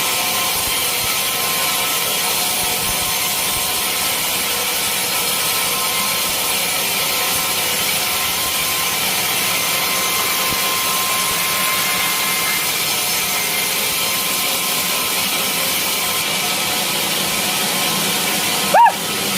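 Sawmill saw cutting lengthwise through a large teak log: a steady, even sawing hiss with a faint constant whine from the saw. A brief break with a short sharp sound comes just before the end.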